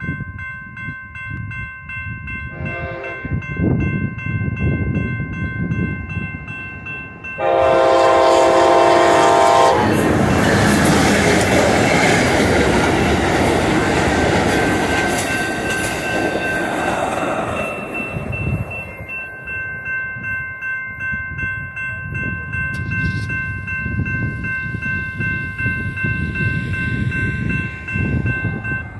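Railroad crossing bells ringing steadily as an Amtrak passenger train comes through. Its horn gives a short, fainter toot about three seconds in, then a loud blast of about two seconds near eight seconds in. The rumble and clatter of the passing train follows for about eight seconds, and the bells keep ringing after it has gone.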